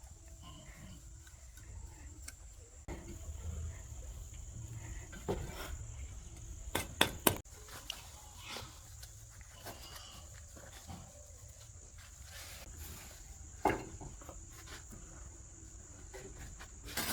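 Steady high-pitched insect trilling, crickets or similar, with a few sharp knocks: two close together about seven seconds in and one near fourteen seconds.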